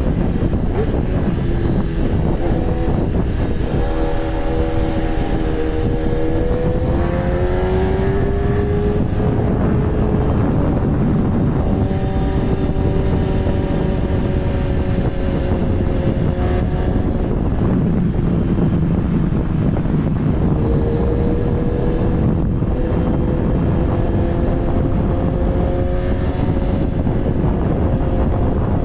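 Kawasaki ZX-10R's inline-four engine running under way, its pitch drifting gently up and down with the throttle, over steady wind and road noise.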